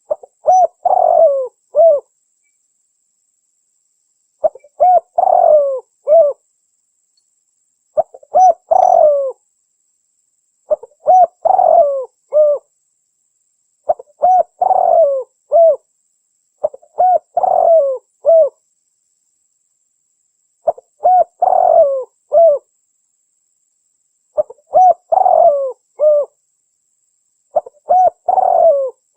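Spotted dove (tekukur) cooing song: a phrase of several cooing notes, repeated about every three seconds, nine times, with dead silence between phrases as in a cleaned-up call recording.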